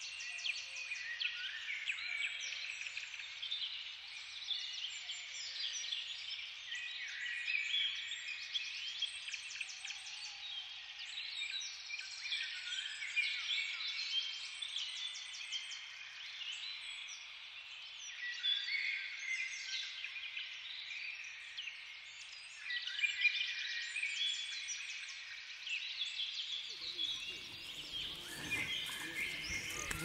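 Many small birds singing at once: a dense chorus of overlapping short chirps, warbles and trills. Near the end a low noise joins in.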